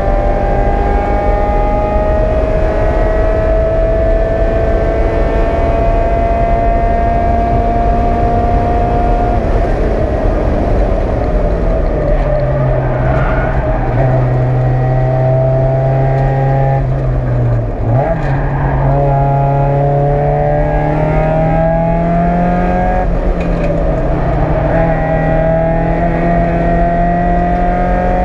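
Racing Mazda Miata's 1.8-litre four-cylinder engine heard from inside the stripped cabin, at full throttle on track: a long pull with the pitch slowly rising for about nine seconds, then easing off into a lower, steadier note. About eighteen seconds in the pitch dips and jumps back sharply, and the engine climbs again under acceleration through the rest.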